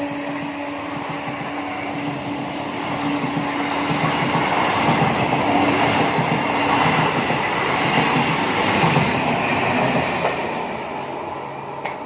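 Suburban train passing at speed, its rumble and wheel clatter on the rails building to a peak about halfway and fading near the end. The fading tail of the train's horn is heard at the start.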